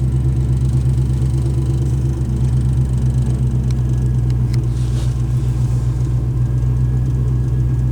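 1978 Pontiac Bonneville's 301 V8 running steadily just after a cold start on its automatic choke. It is kind of loud because the muffler is rotted almost completely off.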